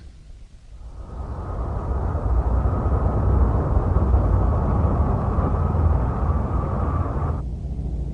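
Cartoon sound effect of a spaceship's engines: a steady low drone that swells in over the first couple of seconds, holds, then drops off suddenly about seven seconds in, leaving a fainter rumble.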